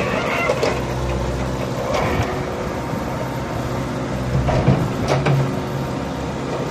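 Diesel engine of a mechanical digger running steadily, with a few short knocks and scrapes scattered through.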